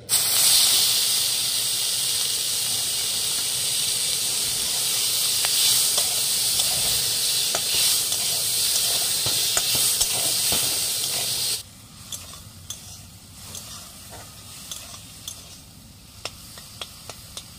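Small prawns sizzling loudly in hot mustard oil in a metal kadai. The hiss starts abruptly as they go in, runs steadily, then about twelve seconds in drops to a much quieter sizzle with scattered light taps of a spatula.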